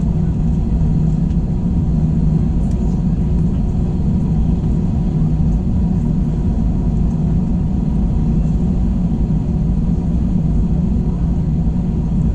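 Airbus A321 cabin noise: a steady low rumble of the jet's engines and airflow with a constant hum, heard from inside the passenger cabin.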